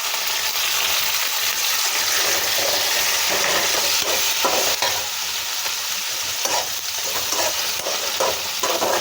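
Onion-tomato masala frying in oil, sizzling steadily, with a spoon stirring and scraping the pan every second or so.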